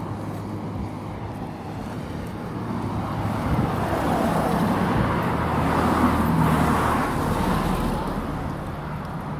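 Motor vehicle running along a road: engine hum and tyre and road noise that swells to a peak about six seconds in, then eases off.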